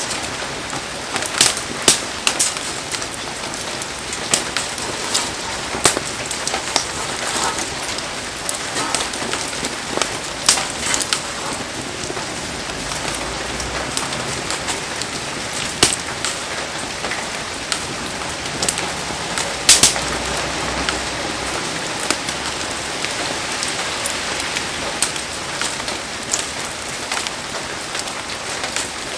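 Heavy rain falling steadily, with frequent sharp taps and pops scattered through it.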